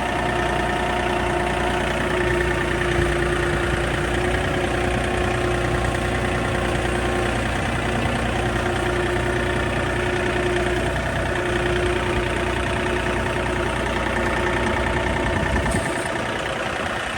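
John Deere tractor engine running steadily as the tractor moves a heavy load, with a steady whine over it. About a second before the end the deep rumble drops away.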